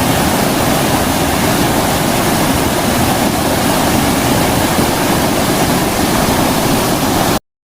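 Creek water rushing steadily, a loud even wash of sound; it cuts off suddenly near the end.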